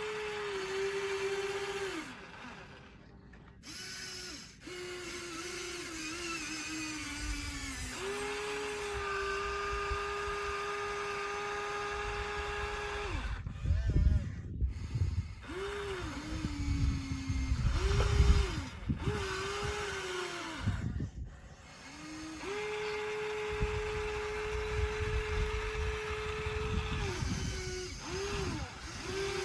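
Small electric motors of radio-controlled construction models whining in repeated runs. The pitch sags under load and recovers, stopping and starting several times. Through the middle stretch there is a low rumble with a few louder knocks.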